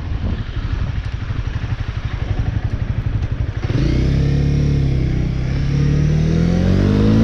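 Motorcycle engine idling with a low pulsing rumble, then about three and a half seconds in it is opened up and pulls away, its pitch rising steadily as it accelerates.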